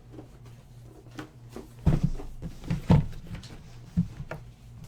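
Handling noise on a table: three sharp knocks and thumps about a second apart, starting about two seconds in, with lighter rustling between them, over a low steady hum.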